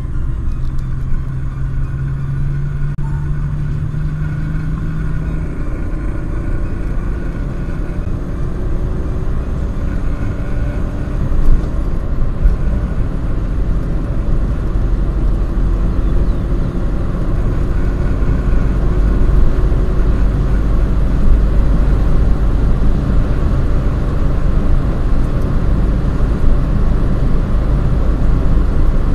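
BMW 325tds's 2.5-litre turbo-diesel straight-six heard from inside the cabin as the car accelerates from about 100 to 180 km/h in one gear. The engine note rises slowly and steadily as revs climb from about 2,000 to 4,000 rpm, and road and wind noise grow louder.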